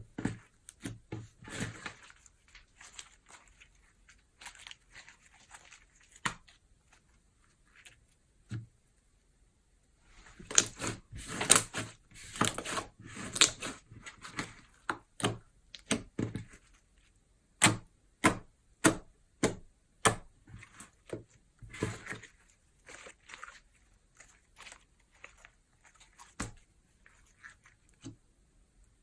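Slime being kneaded, stretched and pressed by hand, making sharp wet clicks and pops. A dense flurry about ten seconds in after a short pause, later a steady run of pops nearly two a second.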